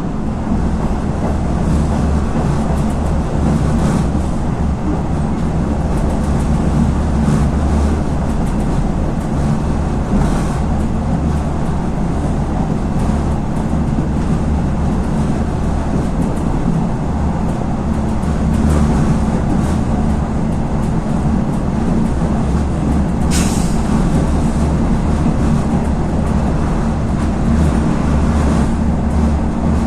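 RegioNova diesel railcar heard from on board while running: a steady low engine drone and rumble, with occasional light clicks and one short hiss about two-thirds of the way through.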